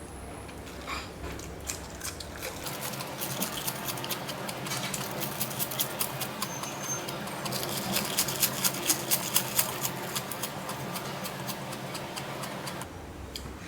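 Person eating hot pot: close, wet chewing and mouth clicks, denser and more rhythmic about eight seconds in.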